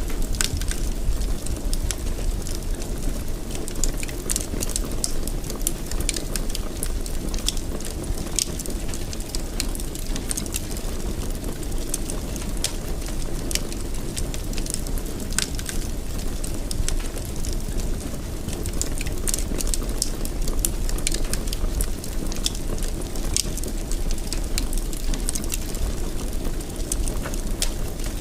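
Fire burning in a fireplace: a steady low rumble of flames with frequent small, sharp crackles and pops scattered throughout.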